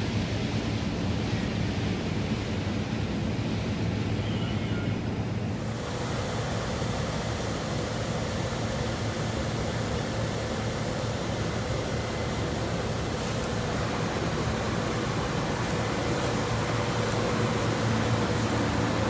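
New Holland CR 8.90 combine running steadily while harvesting corn, a droning machine noise with a steady low hum. About six seconds in the sound turns brighter and a higher steady tone joins it.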